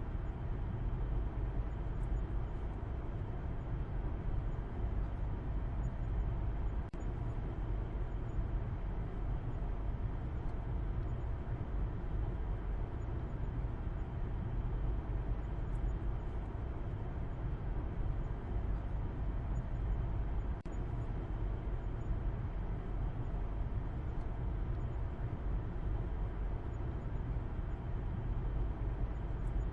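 Steady deep rumble of a car driving: road and engine noise that holds even throughout without rising or falling.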